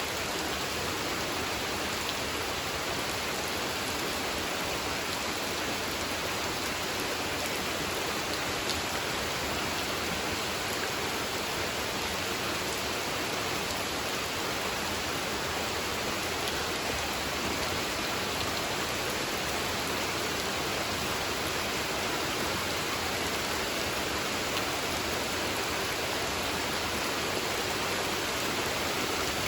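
Gentle rain falling steadily on a spring-fed pond: an even, unbroken hiss of many drops, with no thunder.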